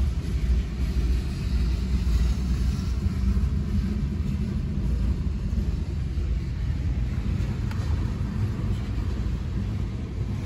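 Freight cars of a long mixed freight train rolling past, a steady low rumble of wheels on the rails, heard from inside a car.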